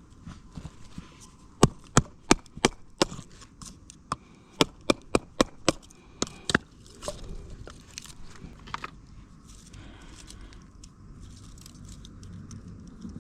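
Batoning firewood: a baton knocking a knife down through a piece of wood to split it into kindling. There is a quick run of about fifteen sharp knocks over five seconds, then fainter scraping and light knocks as the pieces are handled.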